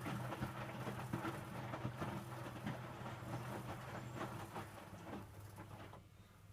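Electrolux W455H commercial washing machine drum tumbling wet towels, irregular sloshing and splashing over a steady low hum. The tumbling stops about five and a half seconds in and only the hum is left.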